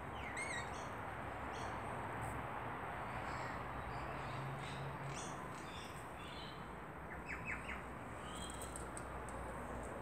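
Birds giving scattered short chirps and calls over a steady outdoor background hiss, with a wavy call near the start and a quick run of three notes about seven seconds in.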